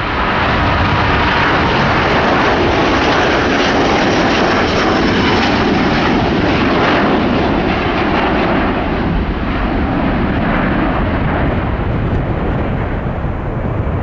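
Airbus A330-900neo's twin Rolls-Royce Trent 7000 turbofans at takeoff power as the airliner departs. A loud, steady jet roar that peaks in the first half and then slowly fades, its hiss dropping away as the aircraft moves off.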